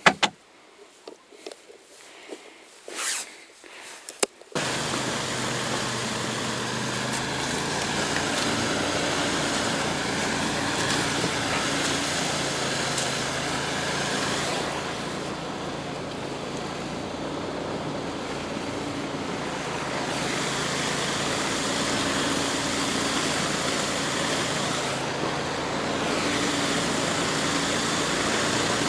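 A few faint clicks and knocks, then a small vehicle engine starts sounding suddenly about four and a half seconds in. It runs steadily with a slight rise and fall in pitch, heard from on board while travelling over the ice.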